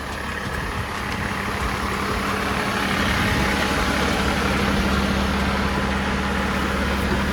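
Dump truck's diesel engine running steadily with a low hum, getting louder over the first few seconds and then holding level.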